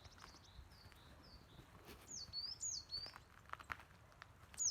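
A songbird singing: faint high notes at first, then from about two seconds in a clearer run of about three notes, each sliding down in pitch, at roughly two a second.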